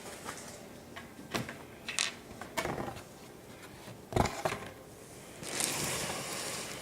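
Scattered light knocks and taps of painting things being handled, the loudest about four seconds in, followed by a rustling hiss near the end.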